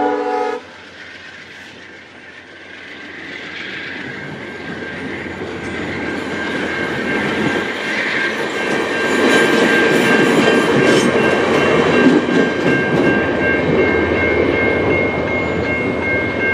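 A train horn chord cutting off about half a second in, then a VIA Rail passenger train passing slowly, its wheels rumbling on the rails, growing louder over several seconds and then holding steady. Thin high ringing tones from the wheels join in during the second half.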